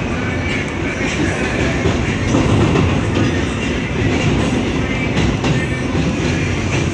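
R160 subway car running along the track, heard from inside the car: a steady rumble of wheels on rail with clicks from the rail joints, swelling a little about two and a half seconds in.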